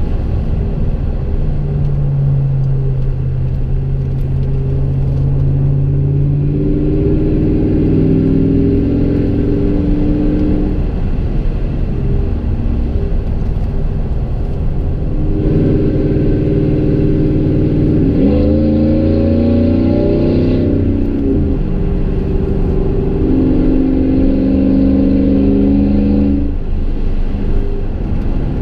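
Chevy Silverado 5.3-litre V8 with long-tube headers and a Gibson MWA muffler, heard from inside the cab while driving. The exhaust note holds steady tones for stretches and shifts pitch several times, with a short rise and fall in revs about two-thirds of the way through.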